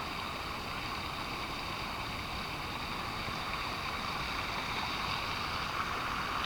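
Waterfall on a creek rushing steadily, a constant water noise loud enough to drown out nearby voices.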